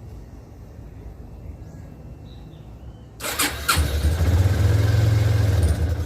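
Yamaha Fazer 250 single-cylinder motorcycle engine starting about three seconds in, revving briefly, then settling into a steady pulsing idle. The bike has been repaired for an engine noise.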